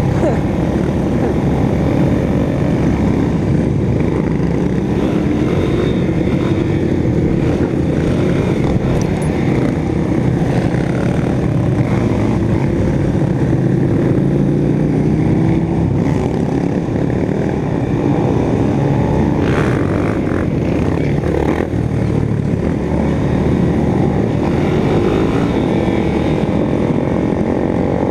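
Motorcycle engine running under way, its pitch rising and falling repeatedly with throttle and gear changes.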